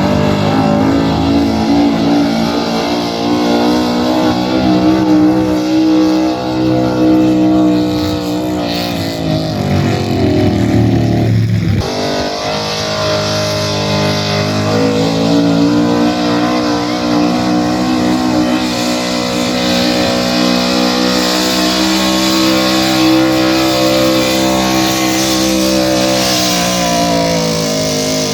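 Pulling truck or tractor engine running hard at high revs under load, a steady loud drone that dips briefly about twelve seconds in, picks up again, and winds down near the end.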